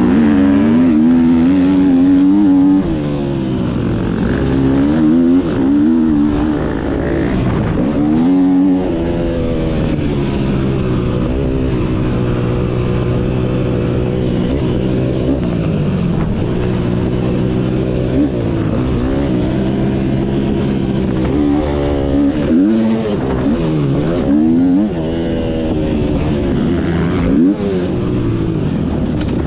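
Motocross motorcycle engine running hard and loud, its pitch rising and falling again and again as the throttle is opened and closed and the gears change.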